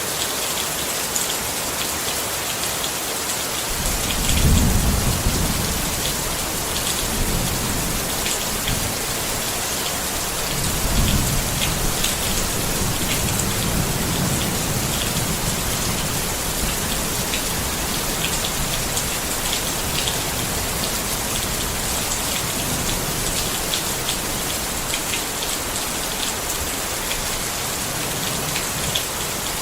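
Steady rain pattering on a tent, with a low roll of thunder about four seconds in and another longer one from about ten seconds in.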